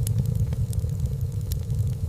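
Wood fire burning in a fireplace: a steady low rumble with sharp crackles and pops of the burning logs scattered through, four or five in two seconds.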